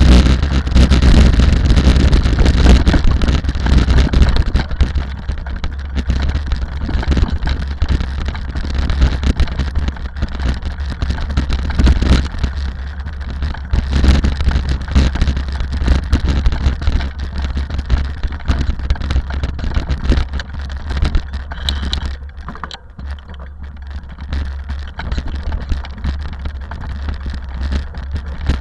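A rally car's engine running at speed, loudest in the first few seconds and then fading away, over a steady low rumble.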